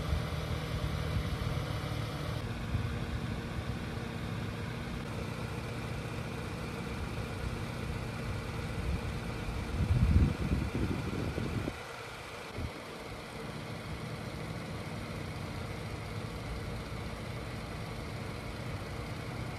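A 2023 Hyundai Tucson's engine idling steadily, with a brief louder swell about ten seconds in, then settling back to a slightly quieter idle.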